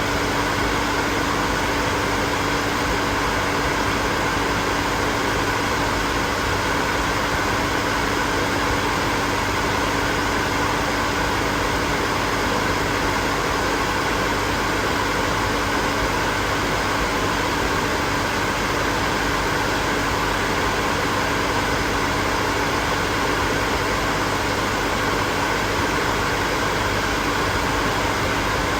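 Hair dryer running continuously: a steady rush of blown air with a constant motor hum, unchanging throughout.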